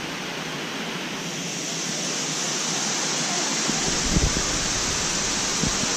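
Thornton Force waterfall rushing steadily as a constant hiss of falling water, growing a little louder about two seconds in. A couple of brief low bumps come near the end.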